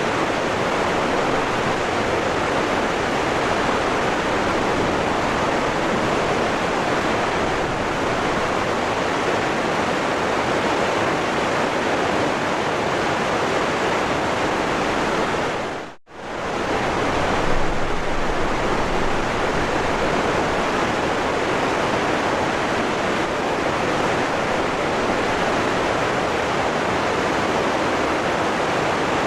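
Waterfall, rushing water falling in a steady, dense roar. About halfway through, the sound dips almost to silence for a moment and comes straight back.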